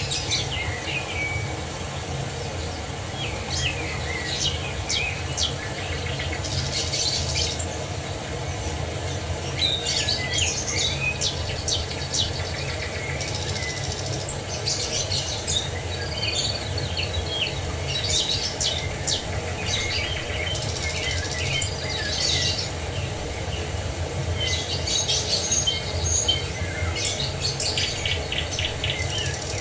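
Several songbirds chirping and singing in short repeated phrases and trills, over a steady low rush of falling water.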